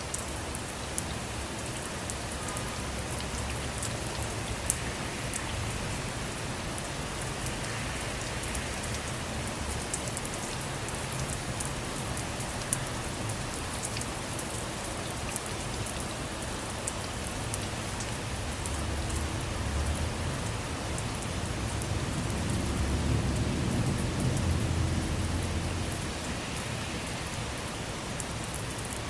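Steady rain falling on a car, with many sharp individual drop hits over the hiss. A low rumble of distant thunder swells and fades about three quarters of the way through.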